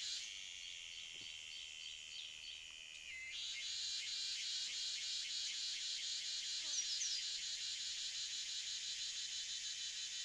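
Dense, evenly pulsing chorus of insects such as crickets or cicadas, thinner for the first three seconds and then fuller. A couple of brief bird chirps cut through about seven seconds in.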